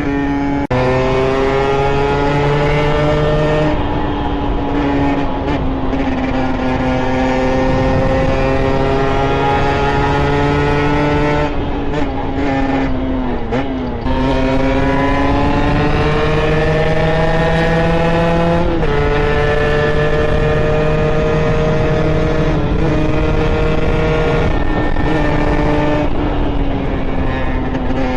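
Two-stroke engine of a Beta RR moped, bored to 70cc with an Airsal kit and breathing through a handmade SCR Corse expansion exhaust, running hard under way. Its pitch climbs slowly and drops suddenly at gear changes, about 4 seconds in and again near 19 seconds, and dips and recovers around the middle.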